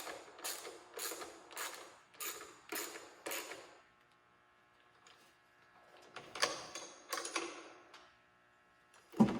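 Ratchet wrench tightening an exhaust mounting bolt, clicking in short back-and-forth strokes about twice a second. It pauses, then makes a few more strokes, and there is a single knock near the end.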